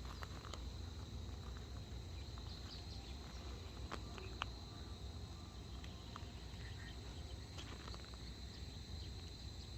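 Insects trilling in one steady high-pitched drone, with a few faint bird chirps scattered through and a low rumble underneath.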